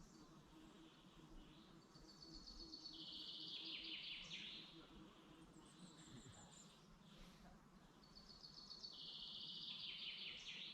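A songbird singing twice, about six seconds apart. Each song lasts about two and a half seconds: a high trill that steps down into a lower, louder rattling phrase.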